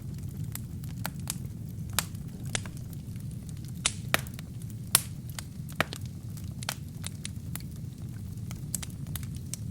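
Wood fire crackling: irregular sharp pops and snaps over a steady low rumble of the flames, with the loudest pops about two, four and five seconds in.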